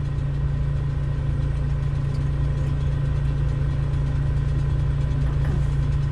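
Steady low engine drone running at an even pitch, with no revving or change.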